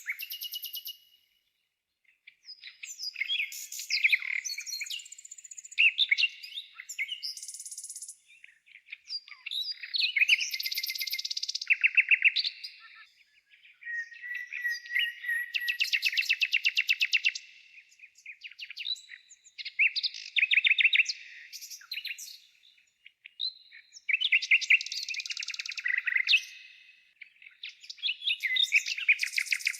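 Songbirds singing in phrases of a few seconds, many of them fast trills and rapid runs of repeated notes, with short pauses between phrases.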